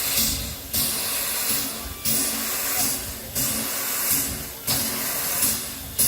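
MÁV class 424 'Bivaly' steam locomotive pulling away, its exhaust chuffing in slow, even beats about every 1.3 seconds, each a sharp hiss that fades before the next.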